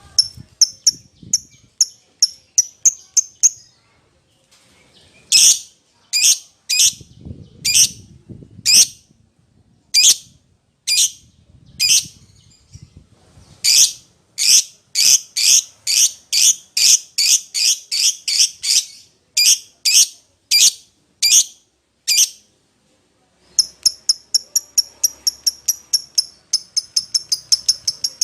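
Lovebird giving shrill, sharp chirping calls over and over, a contact call to another bird. Quick runs of chirps open and close the stretch, with louder, more spaced chirps between them and a short pause about 22 seconds in.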